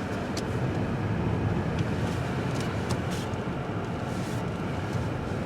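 A car's engine running steadily, a low even hum with a few faint ticks.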